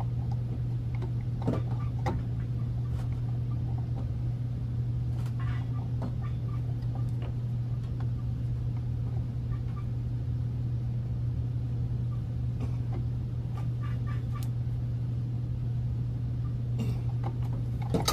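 A steady low hum with a few scattered light metallic clicks and clinks from a wrench working a plumbing fitting on a water heater.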